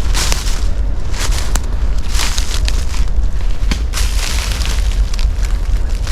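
A long freight train running past on the railway line: a loud steady low rumble, with repeated short rushes of noise about once a second.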